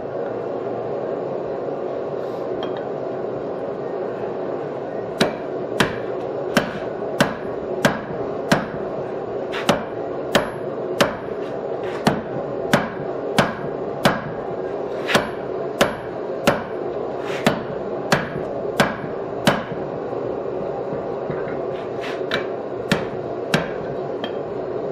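Hand-hammer blows on hot steel stock at the anvil while forging a bottom fuller, struck at a steady pace of about one and a half a second, with a short pause and then a few more blows near the end, over a steady background hum.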